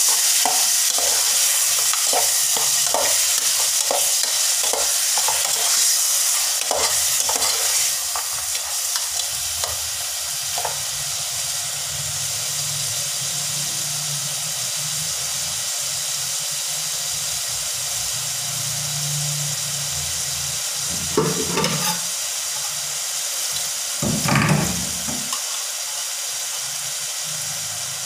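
Chicken pieces sizzling as they fry in a stainless steel pot. A spatula scrapes and clicks against the pot for roughly the first ten seconds, then the stirring stops and the frying goes on as a steady sizzle. Two short, louder noises come about three seconds apart near the end.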